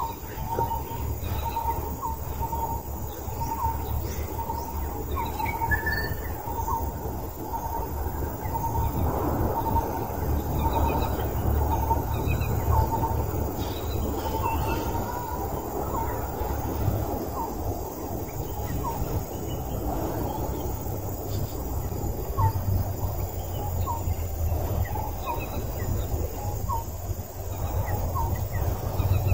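Outdoor forest ambience: a bird repeats short chirps, one or two a second, over a steady low rushing background.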